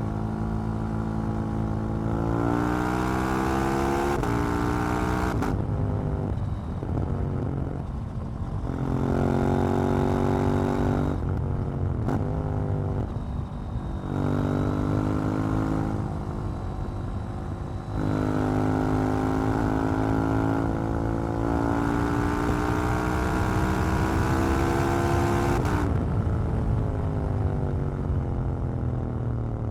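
KTM 790 Duke's parallel-twin engine accelerating through the gears: the note climbs steadily in each gear, then drops back at each shift. There are two short off-throttle lulls, about six seconds in and again around twelve seconds, before it pulls hard again.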